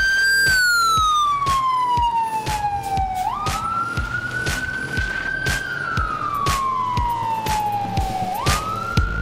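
Fire engine siren wailing: its pitch falls slowly, snaps back up, climbs and falls again, in two long cycles of about five seconds each.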